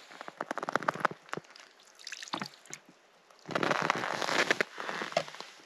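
Knife scraping and clicking against a fish during cleaning: a run of quick short scrapes, a quieter pause, then a denser scraping rush about three and a half seconds in.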